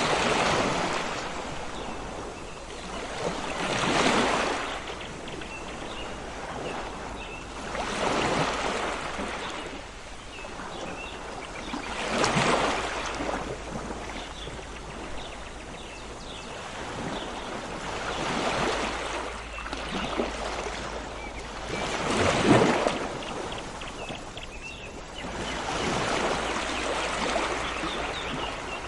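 Sea waves washing onto a shore, each surge swelling and fading, about every four seconds. Faint short bird chirps sound in the middle.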